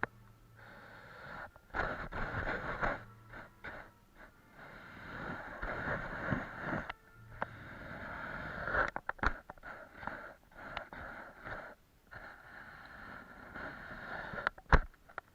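A brush or similar painting tool scrubbing across a large canvas in strokes of one to three seconds each, with short pauses and a few light taps between them.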